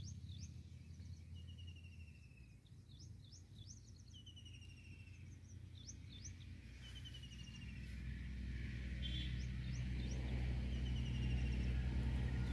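Birds calling: repeated short high chirps and buzzy, slightly falling trills, over a low steady hum that grows louder after about eight seconds.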